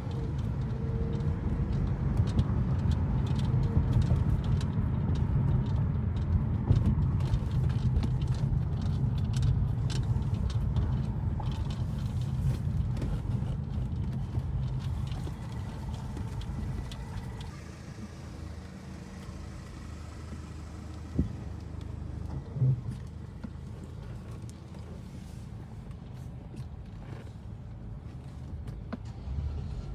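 Car engine running with its exhaust line removed, a steady low drone while driving that eases off a little past the halfway mark. Two short knocks come a few seconds later.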